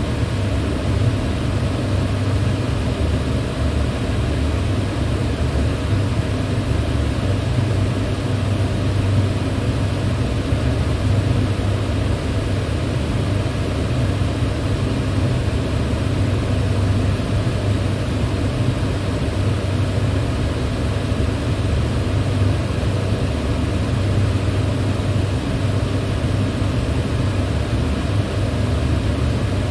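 Electric fan running steadily: an even airy rush with a low hum that does not change.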